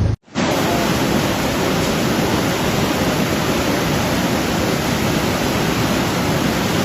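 Rushing floodwater: a steady, even rushing noise at a constant level, starting right after a brief cut to silence at the very beginning.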